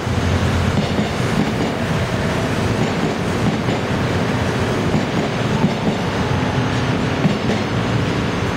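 Electric commuter train running past the platform at speed, a steady rumble of wheels on the rails.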